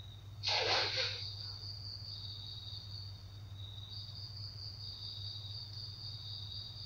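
Crickets chirring steadily in two high, even tones over a low steady hum. A brief rush of noise, the loudest thing here, comes about half a second in.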